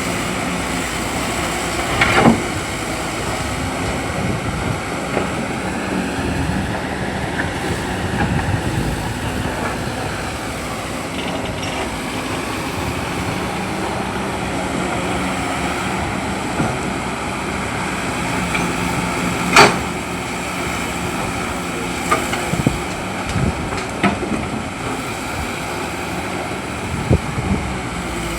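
Excavator's diesel engine running steadily, with a handful of sharp metallic knocks: one about two seconds in, the loudest past the middle, and several more near the end.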